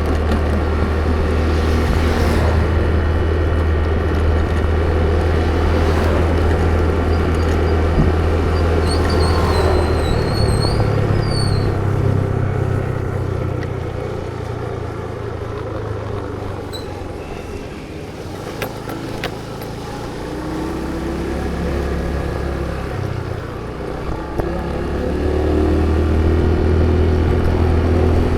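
Road vehicle engine running on the move with road noise. It eases off about halfway through, then picks up speed again near the end, its pitch rising. There is a brief high squeak about ten seconds in.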